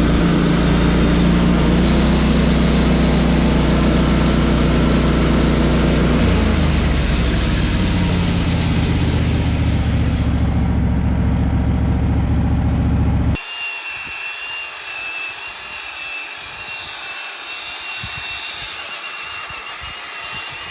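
An engine running steadily, its pitch dropping slightly about six seconds in. It cuts off abruptly about 13 seconds in, replaced by a quieter hiss with a thin, steady high whine.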